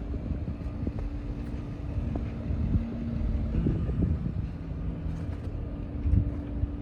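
Diesel semi-truck engine idling: a steady low rumble with an even hum. A few dull knocks come through, about halfway and again near the end.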